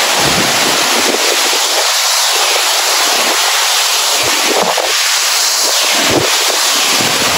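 Skjervsfossen waterfall close up: a loud, steady rushing roar of falling water, with a few low thumps of wind and spray buffeting the microphone.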